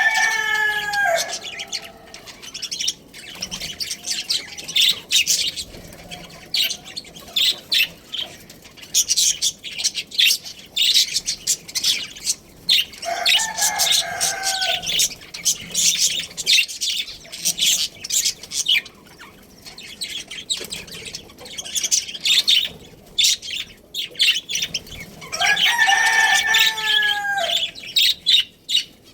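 Budgerigars chirping and chattering in rapid high notes throughout, with a rooster crowing three times: once at the start, once about halfway, and once near the end.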